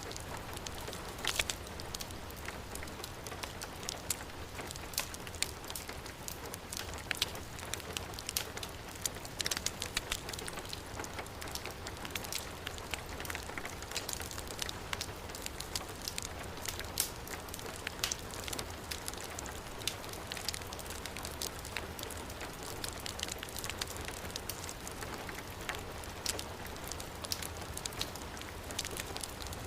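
Heavy rain falling steadily, mixed with a fireplace fire crackling, its many small sharp pops scattered through the steady hiss of the rain.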